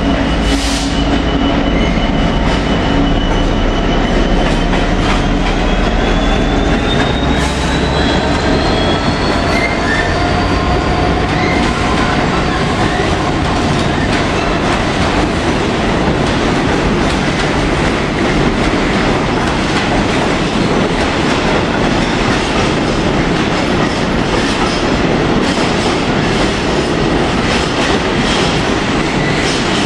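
DB Cargo Class 66 diesel locomotive 66134 passing with its two-stroke V12 engine running, a thin high whine rising in pitch over the first ten seconds. A long train of hooded steel-coil wagons then rumbles past with steady wheel clatter.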